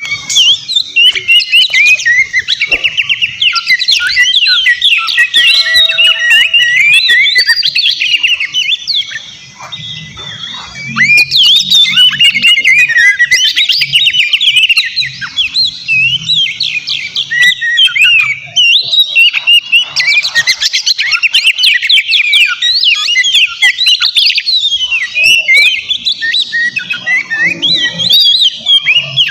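Oriental magpie-robin (kacer) singing vigorously: a fast, unbroken stream of varied whistles, trills and harsh notes, with a brief quieter lull about ten seconds in.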